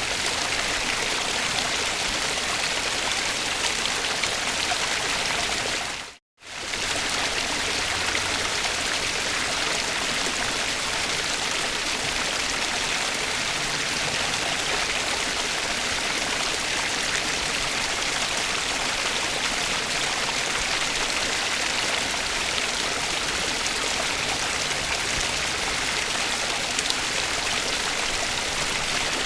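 Steady rushing of a flowing stream, an even hiss of water with no pauses. About six seconds in, the sound cuts out briefly and fades straight back in.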